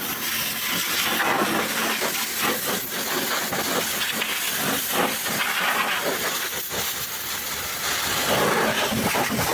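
High-pressure water spray hissing against a truck engine, the sound rising and falling unevenly as the jet sweeps across surfaces.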